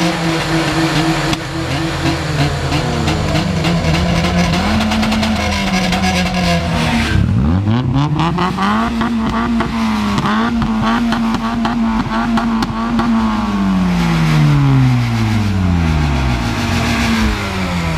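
Car engine revving: the pitch climbs sharply about seven seconds in, holds high for several seconds, then falls away.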